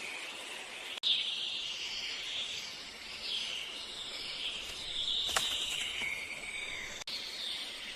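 Small birds chirping in short, repeated calls over a steady hiss of gently flowing river water, with one sharp click about halfway through.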